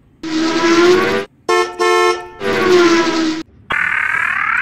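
Loud car-horn-like honks: a long honk, two short honks, another long honk, then a rising whine near the end.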